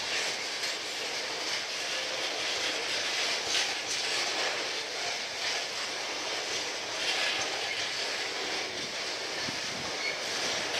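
Loaded tank cars of an oil train rolling past at steady speed: a continuous noise of steel wheels on rail, with a few brief clanks.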